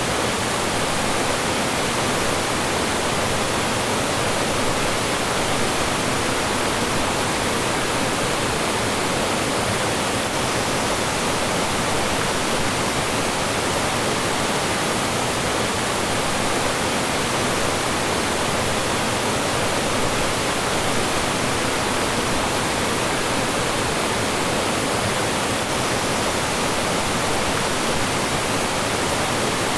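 Mountain stream rushing and splashing over rocks and small falls, a steady, full rush of water with no breaks.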